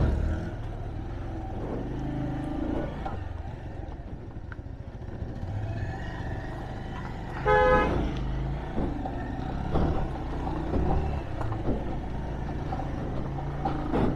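Road traffic: vehicle engines running with a steady low rumble, and one short vehicle horn toot about seven and a half seconds in.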